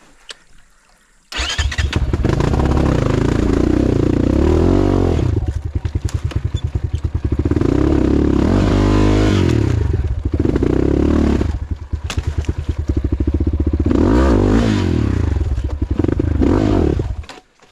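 Off-road motorcycle engine revving hard under load on a steep climb. It cuts in suddenly about a second in, the revs rise and fall several times with a choppier, lower-revving stretch in the middle, and it stops abruptly near the end.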